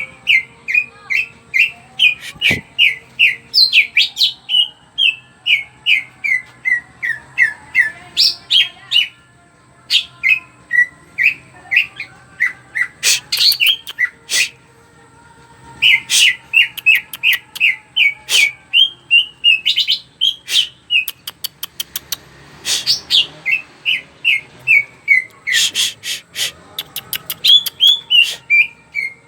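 Green leafbird (cucak ijo) singing vigorously in long runs of quick whistled notes, about three a second. The runs are broken by short pauses and by bursts of sharp, rapid clicking notes.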